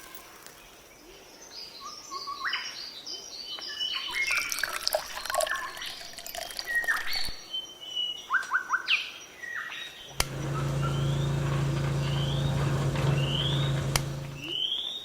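Birds chirping and calling in quick, varied short notes. About ten seconds in, a steady low hum starts under a run of evenly spaced rising chirps.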